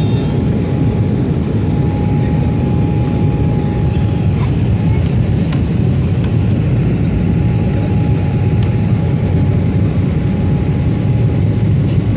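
Steady low rumble of engine and airflow noise inside a passenger airliner's cabin in flight, with a faint steady hum above it.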